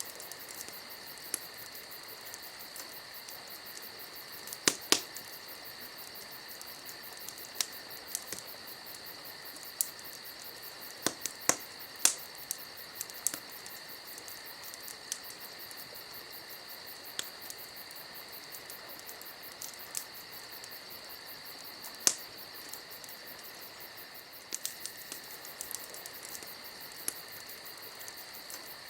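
Wood campfire crackling, with scattered sharp pops and snaps at irregular intervals, the loudest about 5, 12 and 22 seconds in, over a steady high-pitched trill.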